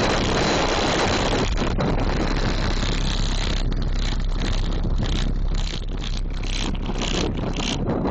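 Digital Designs 500-series 15-inch car-audio subwoofers playing loud bass in a truck, a deep steady low note under a distorted rush of noise as the sound overloads the recording.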